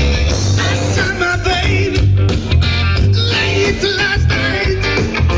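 Live rock band playing loud: electric guitar, bass and drums, with a singer's voice coming in about a second in.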